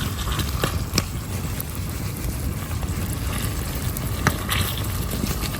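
Wind rumbling on the microphone, with a few light knocks about a second in and again near four seconds.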